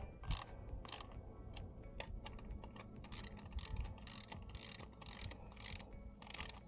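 Hand ratchet wrench tightening the 13 mm exhaust fasteners: a run of short ratcheting strokes, roughly two or three a second.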